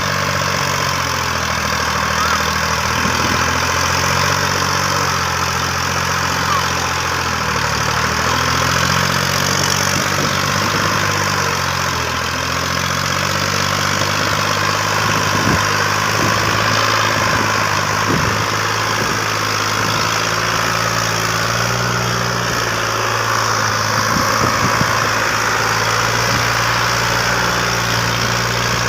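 Massey Ferguson 240 tractor's three-cylinder diesel engine running, its speed shifting up and down several times.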